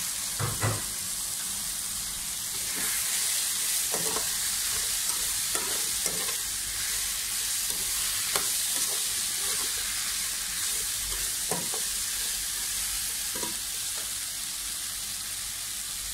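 Sliced bitter gourd sizzling as it fries in oil in a pan, with a metal spatula scraping and knocking against the pan now and then as it is stirred.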